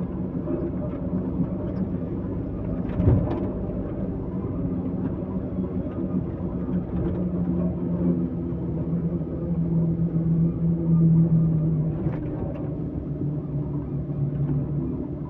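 A heavy vehicle's engine running steadily, with a sharp knock about three seconds in and another about twelve seconds in.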